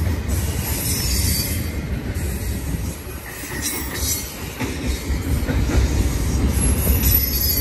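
A BNSF intermodal container train, its cars stacked with containers in deep well cars, rolling past with a steady heavy low rumble. Short high-pitched flashes of wheel squeal come and go over the top.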